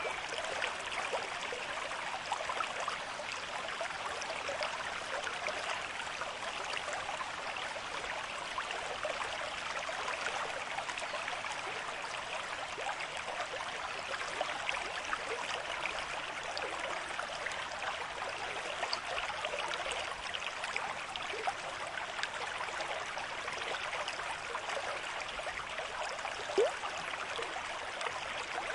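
River stream flowing steadily at a moderate rate, a continuous rush of water with small splashes throughout and one brief louder plink near the end.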